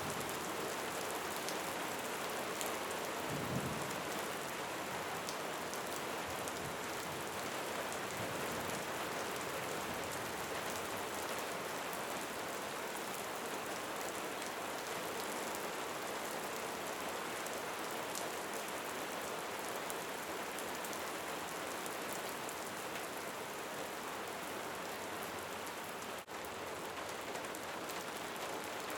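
Steady rain falling, an even hiss thick with small droplet ticks. There is a brief low thud about three and a half seconds in, and the sound dips for a moment near the end.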